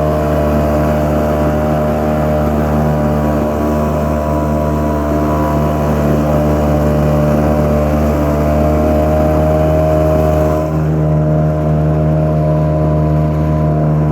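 Yamaha 5 CMHS single-cylinder two-stroke outboard motor running steadily under way, pushing an inflatable boat loaded with over 300 kg. Its tone shifts slightly about ten and a half seconds in.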